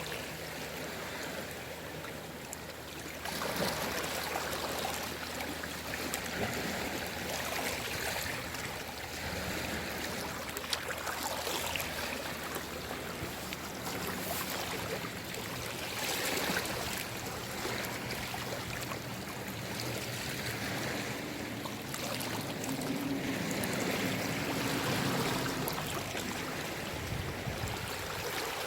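Small waves lapping on a calm sea shore, a steady wash that swells gently every few seconds.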